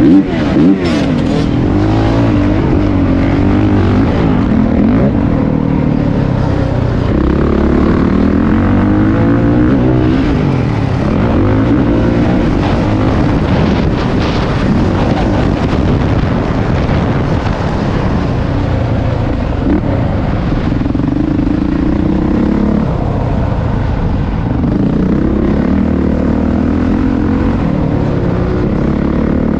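Dirt bike engine being ridden hard around a motocross track, its pitch repeatedly climbing and dropping as it revs up and backs off through the gears. Two sharp knocks come within the first second or so.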